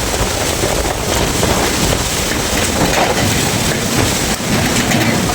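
Strong wind blowing hard and buffeting the microphone: a loud, steady rushing noise.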